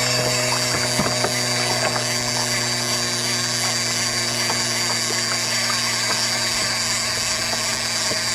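Fishing reel drag whirring steadily as a hooked shark pulls line off the reel against a tightened drag, with faint clicks throughout.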